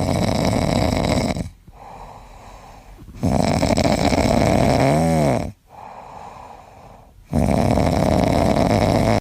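A pet dog or cat snoring: three long, loud snores with quieter breaths between them.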